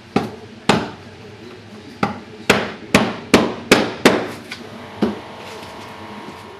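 Hammer blows during floor demolition, about nine in all: two early strikes, a quick run of five, then a last blow.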